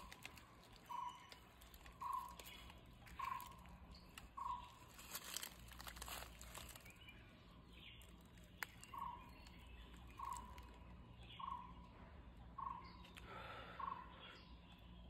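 A bird repeating a single short, clear note about once every second, five times, then after a pause five times more. Faint crackling rustle in the middle.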